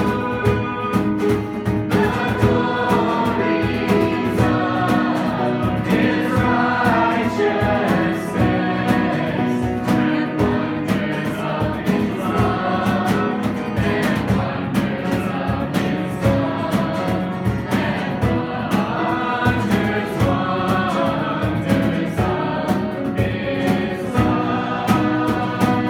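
Live worship music: several voices singing a gospel-style song over instruments with a steady beat.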